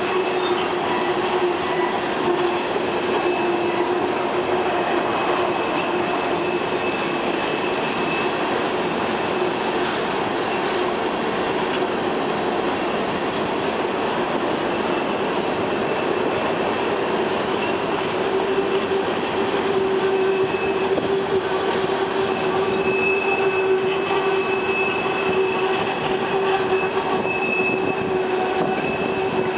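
Empty steel coal hopper cars rolling past on a curve, wheels rumbling on the rails with steady wheel squeal. The squeal has a high thin tone that grows stronger in the second half.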